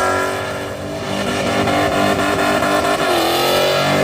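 Car V8 engine held at high revs, the pitch easing down early, holding steady, dipping about three seconds in and climbing again near the end.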